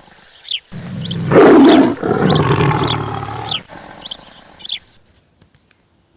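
A big cat roaring: one long, rough roar that starts under a second in, is loudest in its first second and dies away about three seconds later. Short, high, falling chirps repeat over it and stop near the end.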